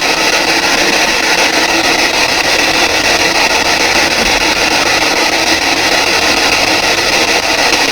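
Steady radio static hiss from a PSB7 spirit box sweeping through radio stations.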